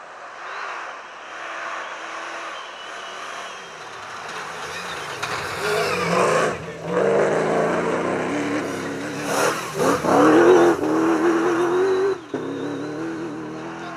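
Cross-country rally car's engine revving hard under acceleration, its pitch climbing and dropping several times, loudest about ten seconds in.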